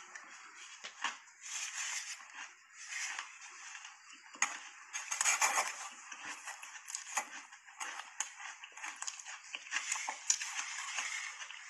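A person chewing and crunching mouthfuls of soft shaved ice coated in matcha powder, in irregular crackly bites, loudest about halfway through.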